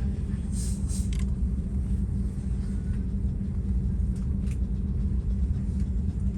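Steady low rumble inside the passenger cabin of an Airbus A330-300 on the ground before takeoff, with a few short hisses about half a second to a second in and again about four and a half seconds in.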